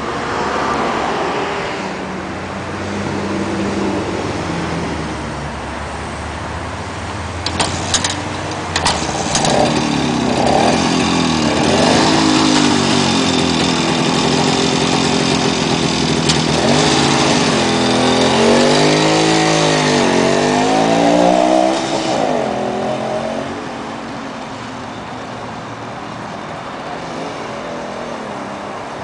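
1955 Harley-Davidson Hummer's 125cc two-stroke single-cylinder engine running, with a few sharp clicks about eight seconds in. It grows louder and is revved up and down several times, then drops to a lower, steady sound as the bike rides away.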